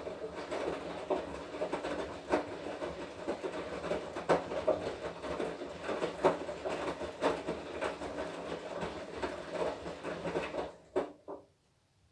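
Washing machine drum turning during the wash cycle, its motor running while the wet laundry tumbles and knocks inside. It stops about eleven seconds in, with a couple of last knocks as the drum comes to rest.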